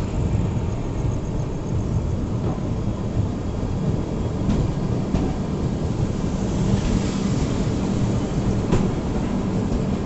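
Shatabdi Express train in motion: a steady low rumble of the running train with a faint hum, and a few sharp clicks around the middle and near the end.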